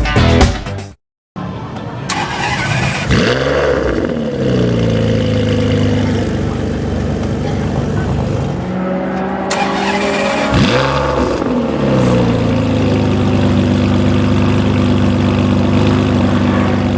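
Ferrari 599 GTB's V12 through a Capristo exhaust, loud, with two rev rises and falls, one about three seconds in and another about eleven seconds in, then running at a steady, even note.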